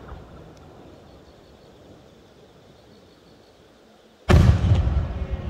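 Fireworks shell bursting overhead: after about four seconds of low background noise, a sudden loud boom about four seconds in, with a sharper crack half a second later and a rumble that echoes and fades.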